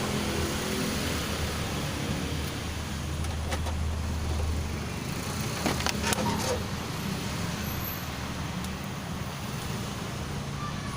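Steady background of road traffic going past, with a deeper engine hum for a few seconds. A few sharp clicks sound about halfway through.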